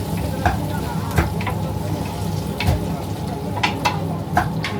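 Food-stall cooking noise: steady frying hiss over a low machine hum, with about eight sharp clinks of utensils on cookware scattered through.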